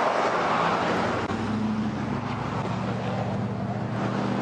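Roadside vehicle noise with wind rushing over the body-camera microphone. From about a second in, a vehicle engine's steady low hum comes in under it.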